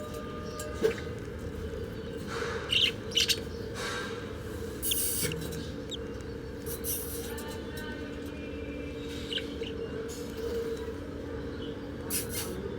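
Baby birds cheeping: a few short, high chirps scattered over a steady low hum, with several sharp knocks.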